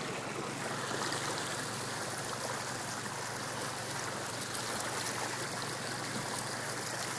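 Steady rushing, water-like noise of a vehicle moving through floodwater, even throughout with no distinct knocks.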